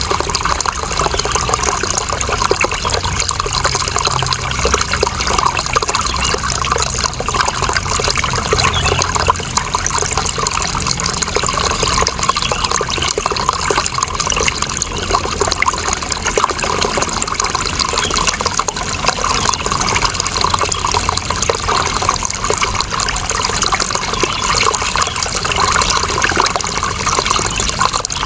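Running water: a continuous, even rush of splashing and trickling.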